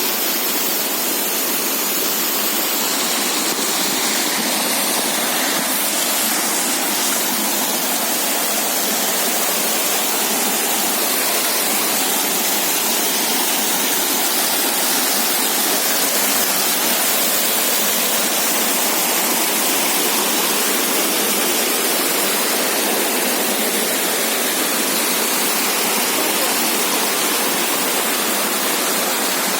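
Turbulent mountain stream rushing and falling over rocks: a loud, steady, even rush of water.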